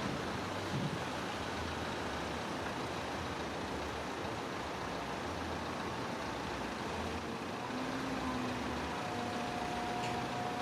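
Heavy diesel machinery engine running steadily, with a low, uneven rumble. A few steady tones join in about two-thirds of the way through.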